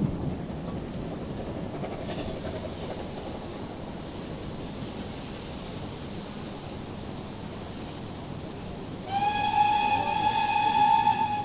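Rumble of a passing steam train fading away, with a hiss; then about nine seconds in, a steam locomotive's whistle sounds one long, high note for about two and a half seconds.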